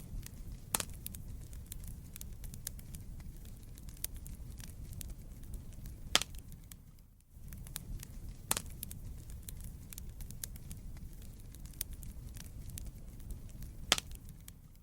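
Wood fire burning in a fireplace: a steady low rumble with scattered crackles and sharp pops of the burning logs, the loudest about a second, six, eight and a half and fourteen seconds in. The sound drops out briefly about seven seconds in.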